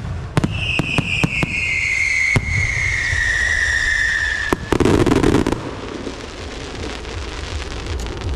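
Fireworks and firecrackers going off: a run of sharp cracks, then a long whistle sliding slowly down in pitch for about four seconds, cut off by a short loud burst, over a steady rumble.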